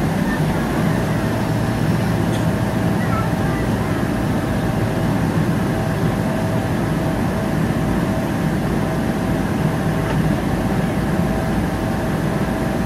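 Steady aircraft noise of a Boeing 777-300ER: its engines and the rushing air, with a thin steady whine that sets in about a second in.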